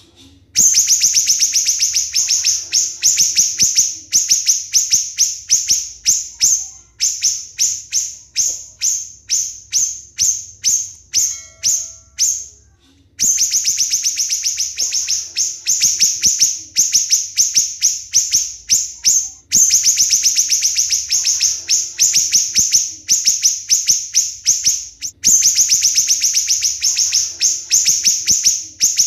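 Siri-siri songbird singing its tight, shrill 'tembakan' phrases: long runs of rapid, sharp repeated notes, about three or four a second, broken by a few short pauses.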